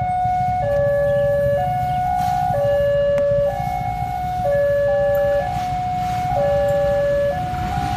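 Railroad level-crossing warning alarm sounding its electronic two-tone signal, a higher and a lower note alternating, each held about a second, warning of an approaching train. A steady low rumble runs underneath.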